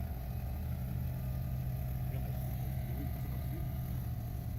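Heavy-haul truck's diesel engine running steadily at low speed, a constant low hum.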